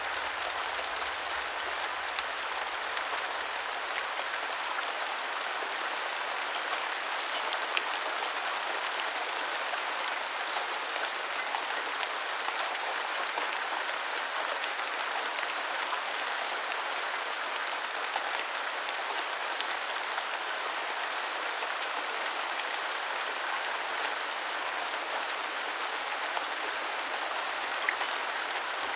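Steady rain falling: a dense, even hiss with scattered ticks of single drops, a few of them a little louder.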